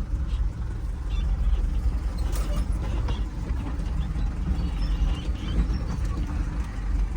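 Mini dump truck on the move, heard from inside the cab: a steady low engine and road rumble with a few light rattles.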